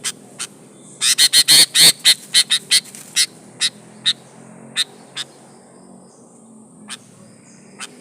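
Female sooty-headed bulbul calling to attract males: a fast run of short, sharp chips about a second in, then single chips coming further and further apart.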